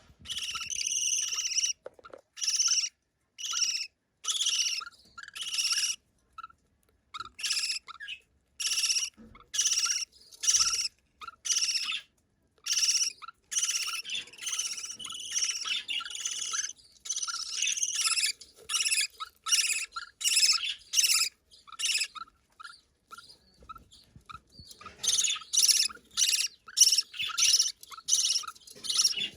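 Baby budgerigar begging for food: repeated short, high-pitched cheeping calls, a call or two every second, with brief pauses, coming faster near the end.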